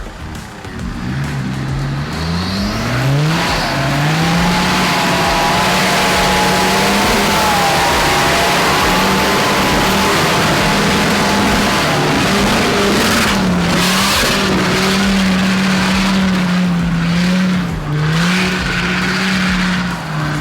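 Off-road 4x4's engine revving hard under full throttle on a muddy hill climb. Its pitch climbs in steps over the first few seconds, then holds high with a few brief dips, over a dense roar of tyres and mud.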